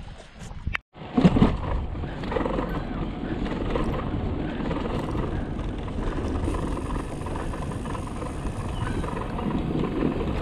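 Wind rumbling steadily on the microphone while cycling, after a brief dropout about a second in.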